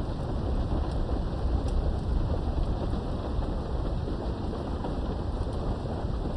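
Steady rain with a low, continuous thunder rumble underneath and a few faint drop ticks.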